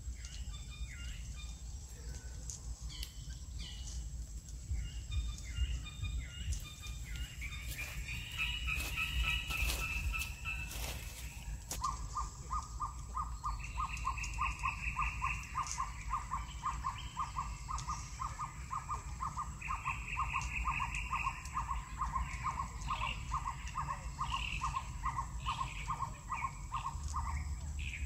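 Forest birds calling. A long run of evenly repeated notes, about three a second, starts a little before halfway and runs until near the end, with short bursts of high trills and scattered chirps. A thin steady high tone and a low rumble lie underneath.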